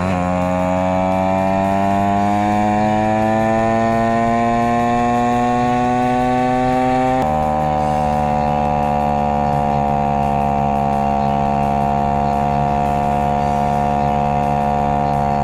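Honda 4L Monkey's small four-stroke single revving up under load on a climb, its pitch rising steadily, then dropping abruptly about seven seconds in as it shifts up, and holding fairly steady after. Sped up to double speed, which raises the pitch to a buzzy, chainsaw-like whine.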